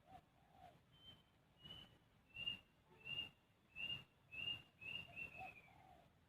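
A series of about eight short, high whistled notes, evenly spaced about every half second or so, with a low dove-like coo at the start and again near the end.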